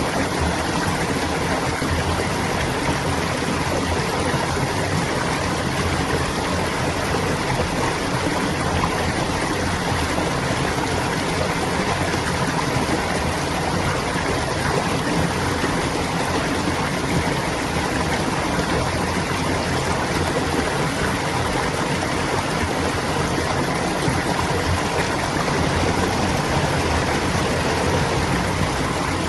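Clear water flowing and babbling steadily, like a small stream.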